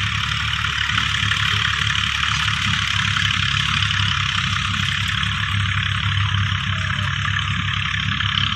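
A motor running steadily: an even low hum under a higher, constant buzz, with no change in speed.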